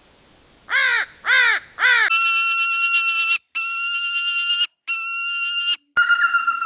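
A crow gives three harsh caws, each rising then falling in pitch. These are followed by three long, steady, electronic-sounding tones that start and stop abruptly, and near the end by a steady pulsing tone.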